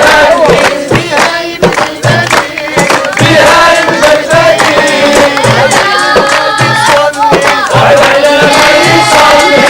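A group of voices singing a song together in unison, over a steady percussive beat about every second.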